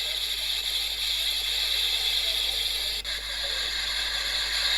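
Steady high-pitched hiss of insects chirring, with a brief drop about three seconds in.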